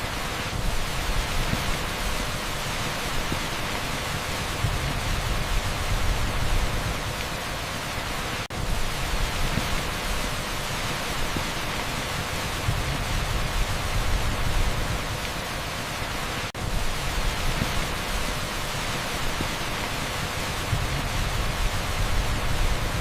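Heavy downpour on an asphalt street blended with dense pink noise: a steady, even hiss with a low rumble underneath. It briefly drops out twice, about eight seconds apart.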